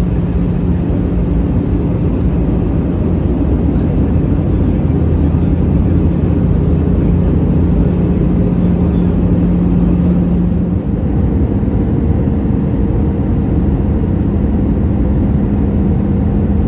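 Cabin noise of an Airbus A320 with CFM56 engines: a steady rush of air with a low engine hum. The engine tone shifts slightly about eleven seconds in, a change in thrust.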